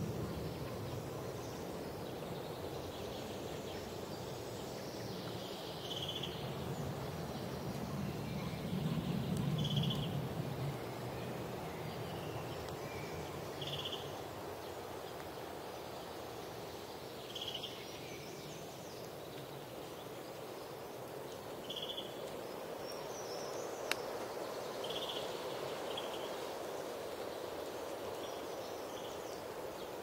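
Forest ambience: a bird repeats a short high call about every four seconds over a steady rushing background. There is a low rumble about nine seconds in.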